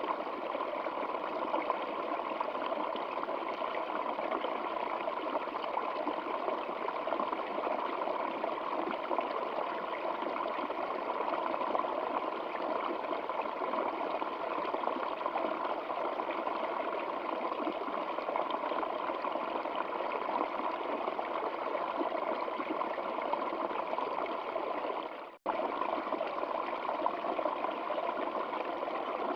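Stream water flowing steadily, an even rushing and trickling. About 25 seconds in it fades and cuts out for an instant, then resumes.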